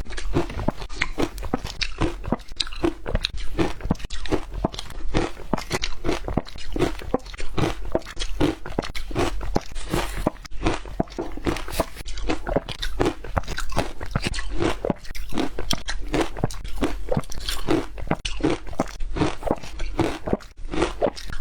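Ice being chewed, a steady run of loud crunches about twice a second as the teeth break up the ice.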